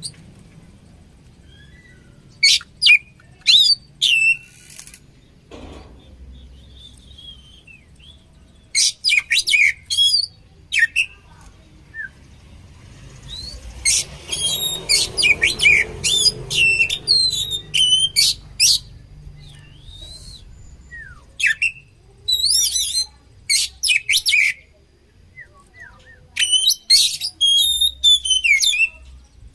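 Oriental magpie-robin (kacer) singing: five bursts of rapid, sharp, high whistled notes, each a second or two long, separated by short pauses.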